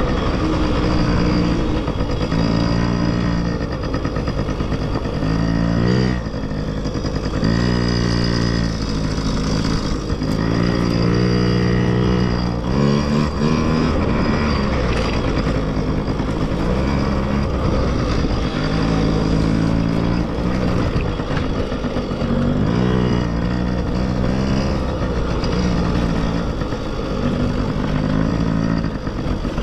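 Dirt bike engines revving and working through the gears, the pitch climbing, holding and dropping again over and over.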